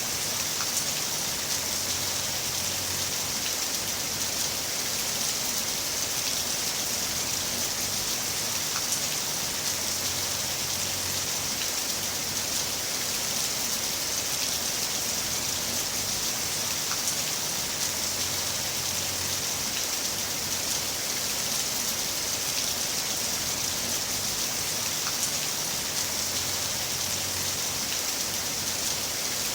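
Heavy rain falling steadily: a dense, even hiss of rain with scattered single drop ticks.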